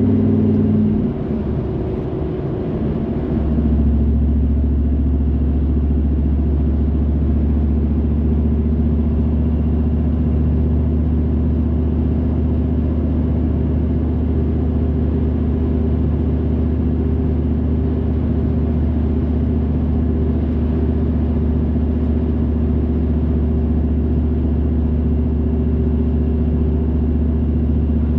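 Car driving along: steady low engine and road drone. The engine note drops and changes about a second in, then settles into an even drone from about four seconds on.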